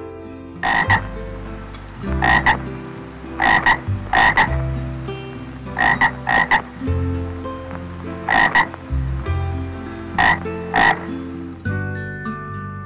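An animal's short croaking calls, about a dozen of them, many coming in quick pairs.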